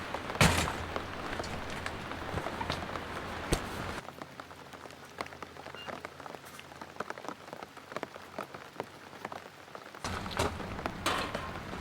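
Rain falling steadily, with many separate heavy drops striking a surface close by. The sound drops quieter about four seconds in and comes back louder near the end.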